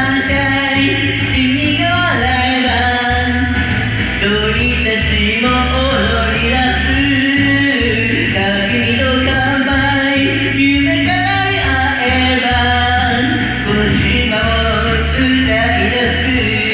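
Karaoke: a pop backing track with a full band playing and a voice singing the melody.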